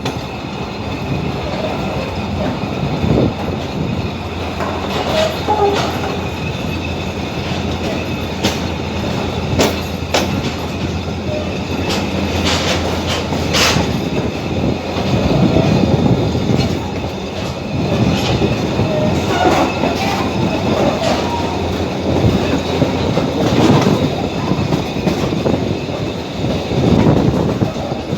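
Abu Qir line commuter train running along the track, heard on board: a steady rumble with wheels clacking over rail joints now and then, and a few brief wheel squeals.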